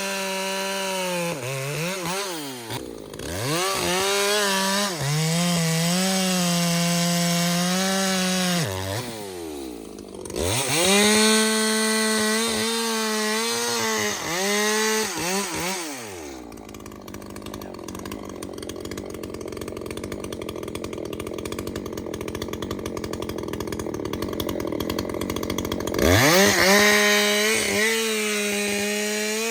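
Ported Echo two-stroke chainsaw cutting wood at full throttle, its pitch sagging and recovering under load through three cuts. It then drops to idle for about ten seconds before revving back up near the end.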